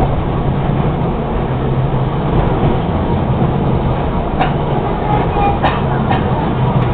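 Tram running, heard from inside the passenger cabin: a steady rumble with a low hum, and a few short clicks in the second half.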